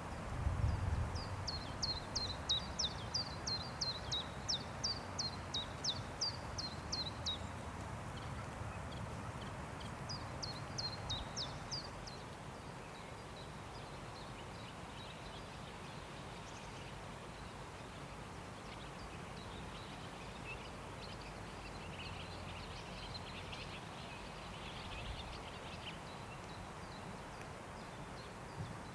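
Forest ambience: a steady rush of wind with a low rumble in the first few seconds, and a small bird singing runs of high, quickly falling notes, about two a second, with fainter chirps later on.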